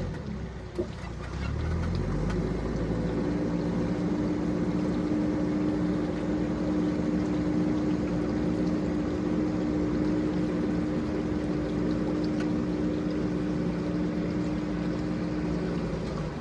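Engine of a heavy machine running: it picks up speed over the first couple of seconds, then runs at a steady pitch.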